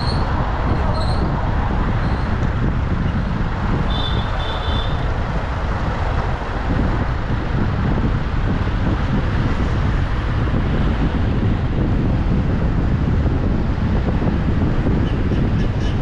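Car driving along a road: steady engine and road noise, strongest in the low range. A few short high-pitched chirps sound in the first five seconds.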